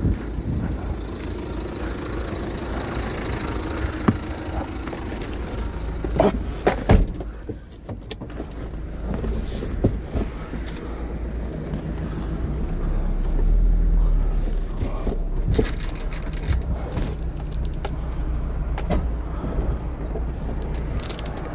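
Car engine running with steady road rumble as the car drives, swelling a little about two-thirds of the way through, with a couple of sharp knocks around the middle.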